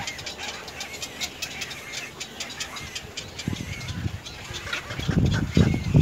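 Birds chirping and clicking in a rapid, irregular series of short high calls. A louder, rough low sound comes in about three and a half seconds in and grows near the end.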